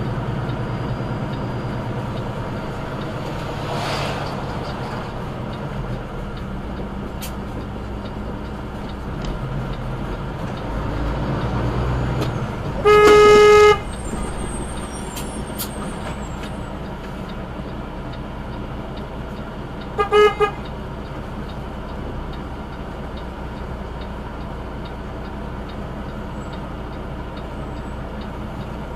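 A vehicle engine running steadily, with one long horn blast about halfway through and two short honks about seven seconds later.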